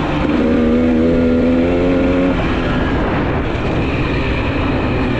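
GasGas EC300 two-stroke dirt bike engine running on the move, holding a steady note for about two seconds before the sound turns rougher and less even.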